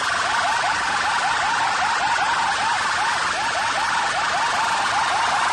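Competition DJ sound system playing a fast siren-like effect through its loudspeakers: short rising chirps repeat about three to four times a second over a dense wash of noise.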